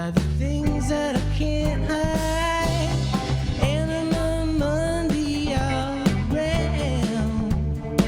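A live rock band playing a song, with a singer holding long notes over the band and a steady beat.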